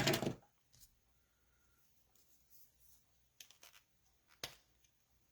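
Coloring marker strokes on cardstock while blending colours: a few brief, faint scratches, clustered about three and a half seconds in with another near four and a half seconds.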